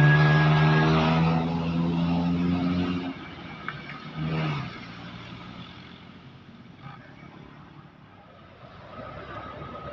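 A heavy road vehicle's engine passing close, a loud steady drone that sinks slightly in pitch and falls away about three seconds in. A short low blast follows a second later, then faint road traffic.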